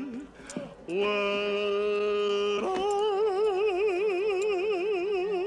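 A man singing wordless long held notes: a short dip, then one steady note about a second in, and from about halfway a second long note with a wide, wobbling vibrato that stops near the end.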